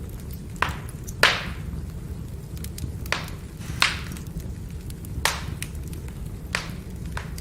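Burning firewood crackling, with a steady low rumble of the fire and several sharp pops spread through it, the loudest a little over a second in.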